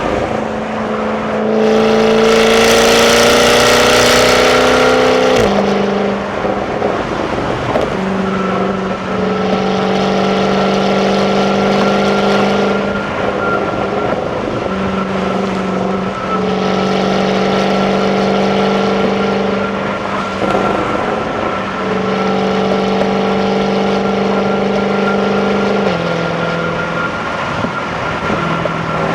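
Jaguar F-Type 5.0 supercharged V8 on its stock exhaust, heard from inside the car while driving. It pulls hard once, rising in pitch, with its loudest, rasping spell a couple of seconds in, then drops with a shift. After that come three gentler pulls at steady revs, each ending in a drop in pitch. A thin, steady high whine runs underneath.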